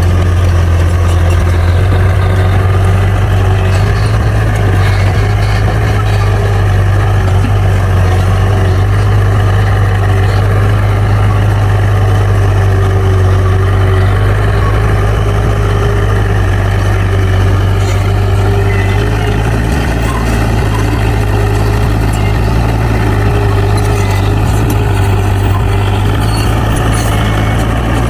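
Bulldozer's diesel engine running steadily with a strong, deep hum.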